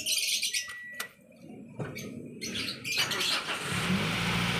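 Birds chirping, a single click about a second in, then about three seconds in the Toyota Vios engine starts and settles into a steady running hum.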